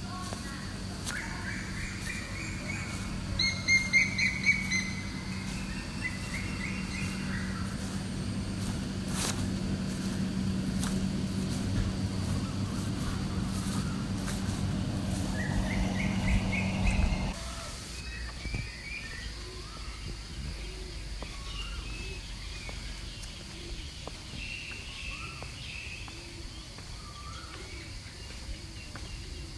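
Birds chirping and calling, loudest in a quick run of repeated high notes a few seconds in, with scattered short chirps after that. A steady low hum runs underneath and cuts off abruptly about two-thirds of the way through.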